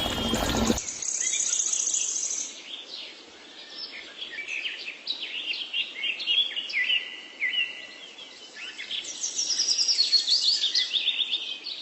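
Small birds chirping and calling: many quick, short notes sliding up and down, busiest in the second half. At the start a loud rushing noise cuts off abruptly just under a second in.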